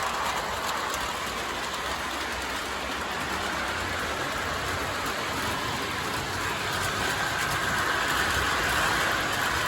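Lion Chief Amtrak O gauge model diesel locomotive running steadily under load, pulling a long, heavy train of cars: wheels rolling on the track with motor hum, a little louder near the end.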